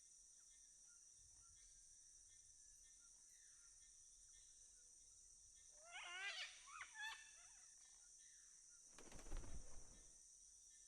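Faint rainforest ambience: a steady high insect drone, with a few short wavering bird calls about six seconds in and a brief rustle near the end.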